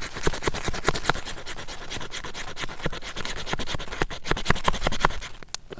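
Ferrocerium fire-starter rod being scraped again and again with a striker in a rapid run of scratching strokes, throwing sparks to light tinder.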